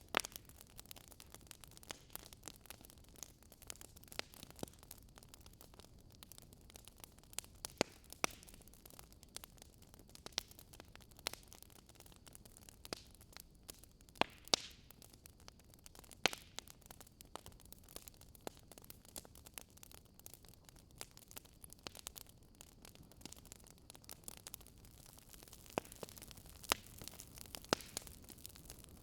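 Wood fire crackling: irregular sharp pops and snaps over a faint, steady hiss, with a few louder pops around the middle and a flurry near the end.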